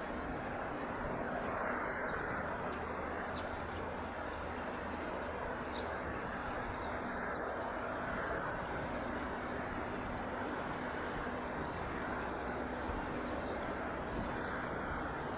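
Piper Archer's single piston engine running at low power as a faint, steady hum under even outdoor background noise, with a few faint high chirps in the second half.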